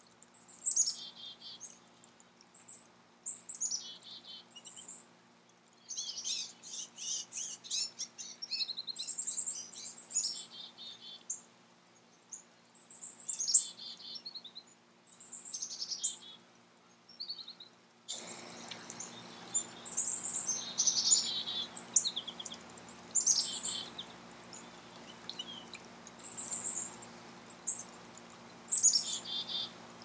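Songbirds singing and calling: short high chirping phrases that drop in pitch, repeated every second or two, with a rapid trill of chips about six seconds in. A faint steady hiss rises under the birdsong about two-thirds of the way through.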